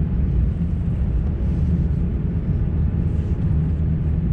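Steady low rumble of airliner cabin noise inside an Airbus A350-900, even in level with no distinct events.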